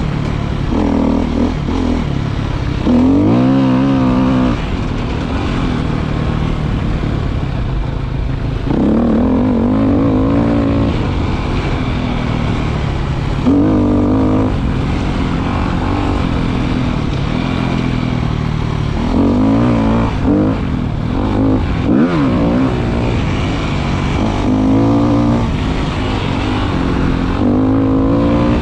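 Motorcycle engine running under way, its pitch rising and falling again and again as the throttle is opened and eased off.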